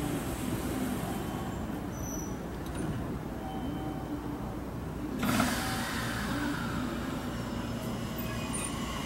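JR Kyushu 813 series electric train standing at the platform with a steady low hum from its equipment. About five seconds in, a sudden hiss of air starts and falls in pitch over a couple of seconds, typical of the air brakes releasing just before the train departs.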